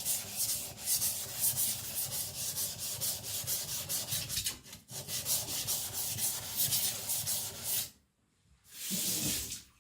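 Steel cleaver blade ground back and forth on a coarse whetstone in quick, even scraping strokes, thinning the blade face near the heel. The strokes stop about eight seconds in.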